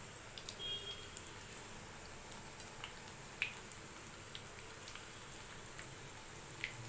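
Dough pithas frying gently in oil over a low flame: a faint steady sizzle with scattered small pops and crackles, the loudest about three and a half seconds in.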